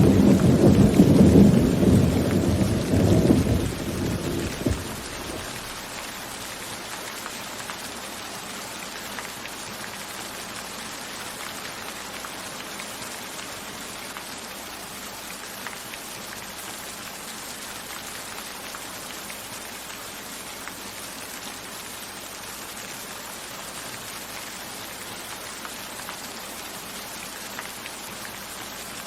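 A roll of thunder rumbling and dying away over the first few seconds, then steady heavy rain.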